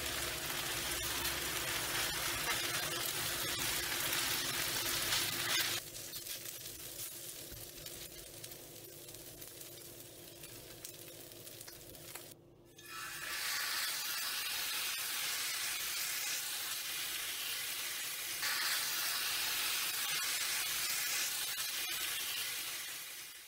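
Food sizzling and frying on a hot griddle pan, with a spatula stirring fried rice across the pan surface. The sizzle drops quieter about six seconds in, stops for a moment near the middle, then comes back louder.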